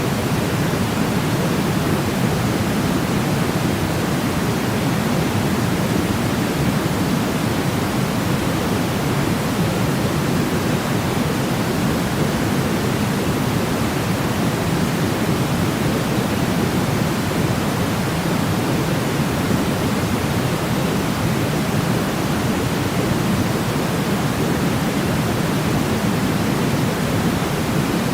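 Steady white noise for sleep: an even, unbroken hiss weighted toward the low end, with no change in level or character.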